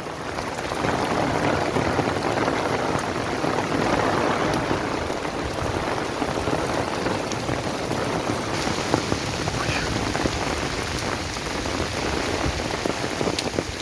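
Storm rain pouring down and splashing on surfaces, a dense steady hiss that grows louder about half a second in.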